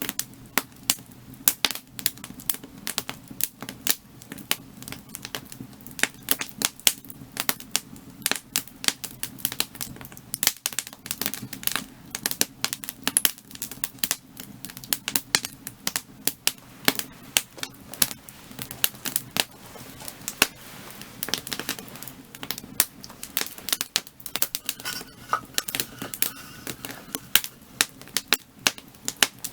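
Firewood burning, crackling and popping with many irregular sharp snaps, over a low steady rumble of the flames.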